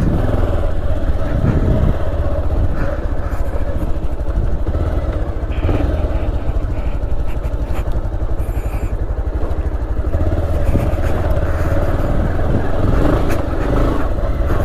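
Motorcycle engine running steadily while riding on a gravel road, with a continuous low rumble.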